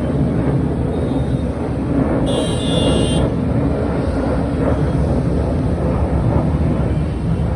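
Steady low roar of fighter jet engines in flight. A brief high-pitched tone sounds for about a second, two and a half seconds in.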